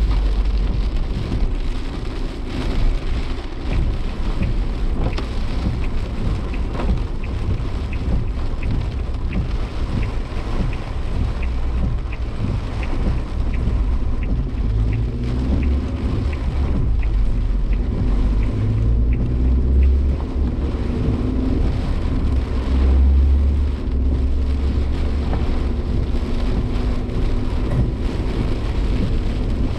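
Heavy rain pattering on a moving Suzuki Jimny Sierra, heard from inside the car over a loud, low rumble of road and wind noise. The engine drones steadily underneath from about halfway through.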